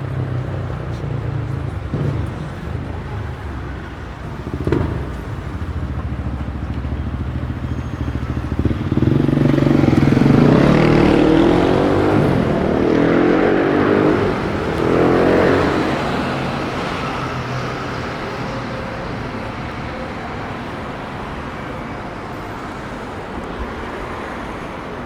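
City street traffic with a steady engine hum. A motor vehicle passes close by from about nine to sixteen seconds in, louder, with its engine pitch rising and falling as it goes.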